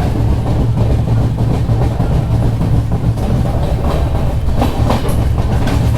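Mandovi Express passenger train rolling along the track at reduced speed, heard from aboard a coach: a steady low rumble with wheel clicks over the rails.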